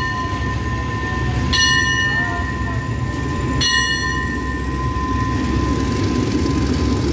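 Diesel passenger train standing at the platform with a loud, steady low rumble. Three sharp ringing strikes about two seconds apart sound over it, each dying away over about a second, with a steady high tone underneath.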